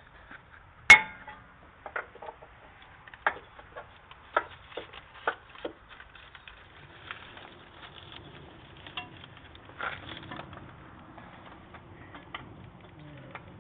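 Irregular clicks and taps from hands handling small parts, most likely the new oil filter being oiled at its gasket. There is one sharp click about a second in, a run of lighter taps over the next few seconds, and a few more about ten seconds in.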